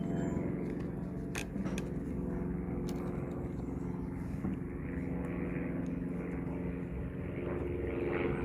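Small lawn mower engine running steadily at an even speed, with a couple of light clicks a second or so in.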